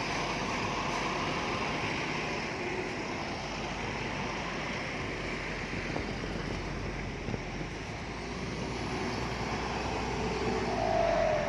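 Heavy diesel earthmoving machinery running steadily: bulldozer and dump truck engines, with a short higher tone near the end.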